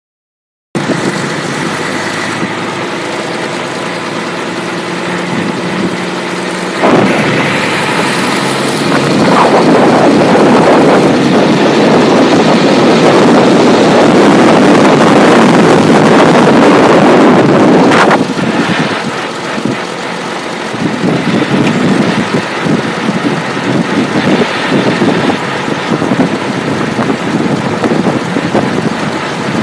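Paramotor engine idling, then opened up to full throttle about seven seconds in and held for about eleven seconds before dropping back to a lower, uneven running.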